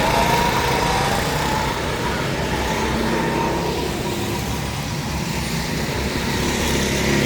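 Motor vehicle engines running steadily, with a whining tone that wavers a little in pitch.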